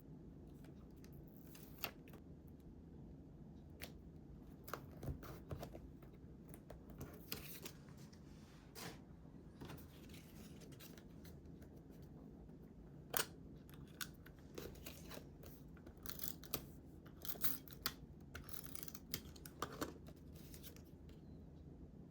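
Scissors snipping paper in short, irregular cuts, with small rustles of paper being handled between them.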